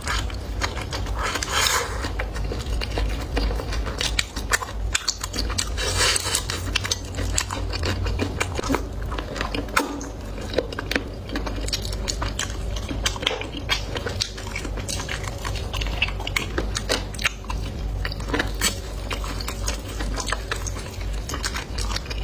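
Close-miked eating: steady chewing and biting with many short wet clicks and crunches from the mouth.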